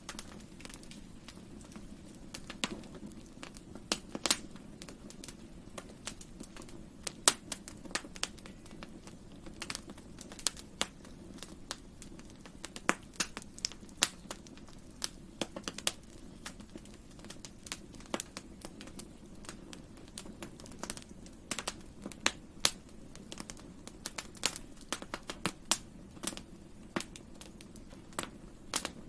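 Wood fire burning: irregular sharp crackles and pops, some much louder than others, over a low steady rush from the flames.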